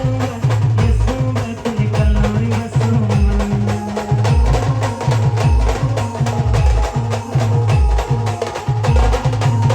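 A band playing an instrumental passage with no singing: a fast, steady drum beat under a held melody line.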